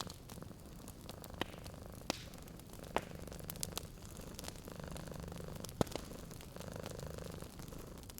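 Domestic cat purring steadily in slow rhythmic swells, over a wood fire crackling with several sharp pops.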